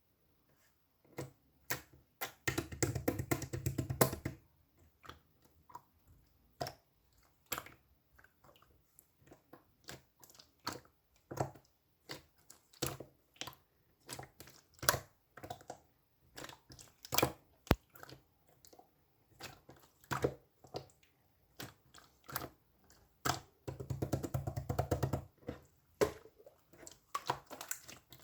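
Green slime being worked by hand: scattered sticky clicks and pops, with two spells of rapid crackling squishes, one about two seconds in and one near the end.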